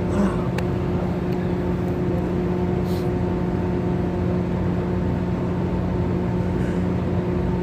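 Steady background hum with a few held low tones under an even haze, unchanging throughout.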